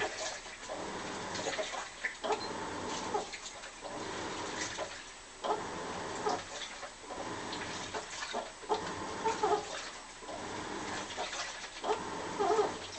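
Washing machine agitating a load: water sloshing as the drum turns back and forth, with squealing, moan-like tones from the machine on each stroke, repeating about every one and a half to two seconds.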